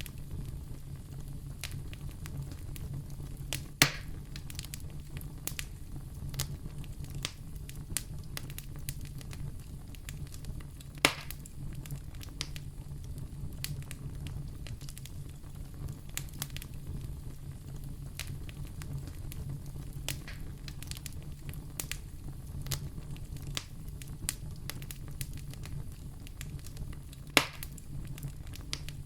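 Wood fire burning in a fireplace: a steady low rumble with constant light crackling and three loud sharp pops.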